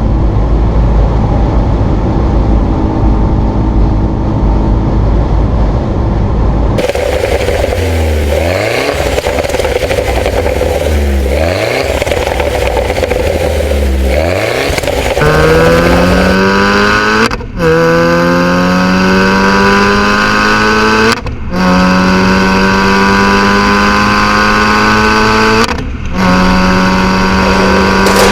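A car engine runs steadily, then accelerates hard through the gears. The pitch climbs in each gear and falls briefly at each change: three slower pulls, then long high-revving pulls with three quick shifts.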